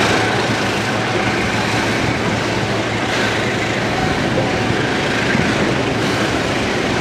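Container freight train rolling past: a steady noise of wagon wheels running on the rails.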